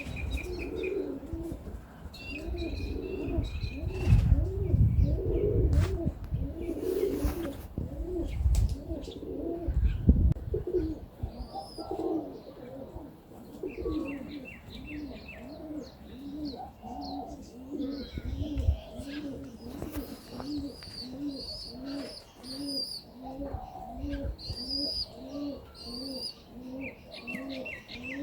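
Pigeons cooing over and over, a run of low coos that settles into about two a second, with small birds chirping high above them. A low rumble comes in a few seconds in and dies away by about ten seconds.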